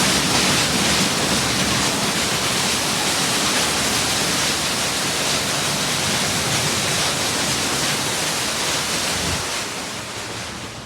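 Water spraying onto the car from a Ryko SoftGloss XS 2 automatic car wash, a loud steady hiss that fades out near the end.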